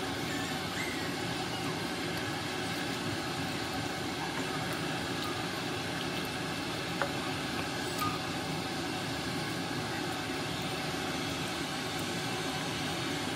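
Pork pieces cooking in their juices in a wok, a steady sizzle, while a wooden spatula stirs them, with a couple of light knocks about seven and eight seconds in.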